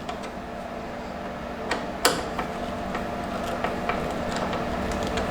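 Steady mechanical hum, like a fan or air conditioner, with a few light clicks and one sharp clack about two seconds in.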